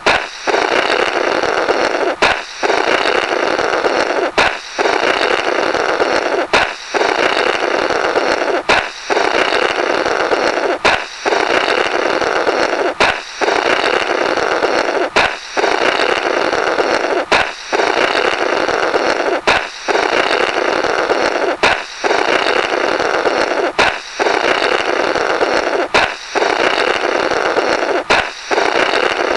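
A balloon pops and then air is blown through the burst rubber in a comical "blorrrt". The sharp pop and the roughly two-second blow that follows it repeat evenly, about every two seconds.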